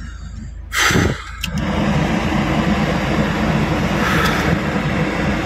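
Škoda Felicia's engine running hard under load, heard inside the cabin, with a knock about a second in. The clutch is slipping and giving off a strong smell on a climb the car can't make.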